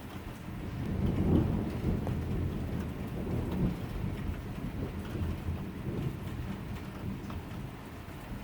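A roll of thunder swells about a second in and rumbles on, slowly fading, over steady rain falling with scattered drop ticks.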